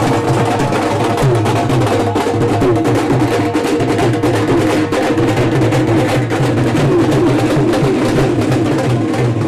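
Live procession music: drums beating busily under a wavering melody line.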